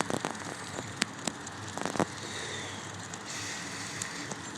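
Bicycle being ridden on a street: steady rolling and wind noise with scattered sharp clicks and rattles.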